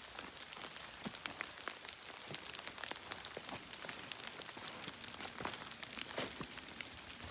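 Steady rain, with many individual drops landing close by as irregular sharp ticks.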